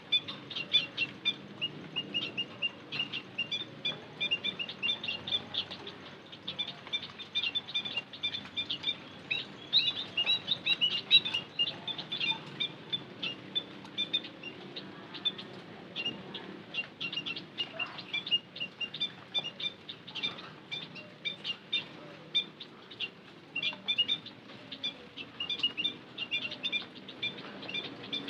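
White-headed munias calling, a dense run of short, high chirps that keep going with brief gaps, the kind of recording used as a lure call to draw munias in.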